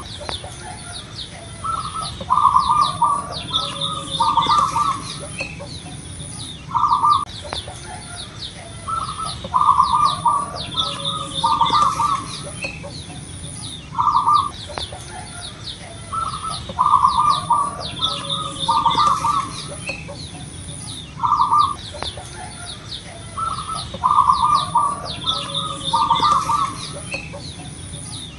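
Zebra dove (perkutut) singing its rolling cooing phrase of several short notes, repeated about every seven seconds, four times. Small birds chirp faintly higher up, over a high, faint pulsing tone.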